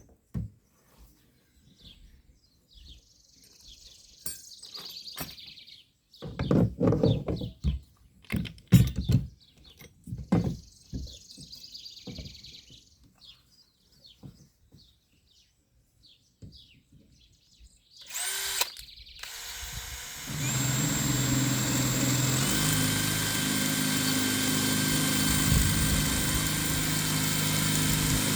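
Handling knocks and clunks of metal parts for the first two-thirds, then an electric drill starts about two-thirds of the way in and runs steadily, its speed stepping up a couple of seconds later, drilling through a steel conduit bracket with a 1/4-inch bit.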